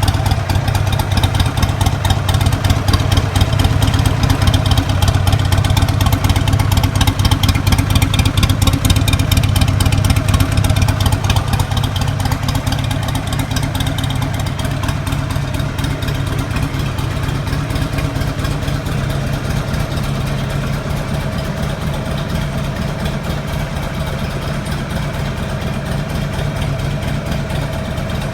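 Buell XB12SS's 1203 cc air-cooled V-twin idling steadily through its exhaust. It is a little louder for the first ten seconds or so, then settles slightly lower.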